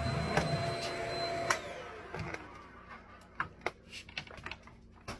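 Shark Rocket Zero-M corded stick vacuum running with a steady whine, switched off about a second and a half in; its motor whine falls in pitch and fades as it spins down. A few light clicks and knocks of the machine being handled follow.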